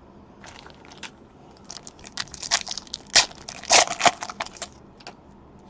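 A trading-card pack wrapper being torn open and crinkled: a run of irregular crackling rips, loudest a little past the middle, then stopping near the end.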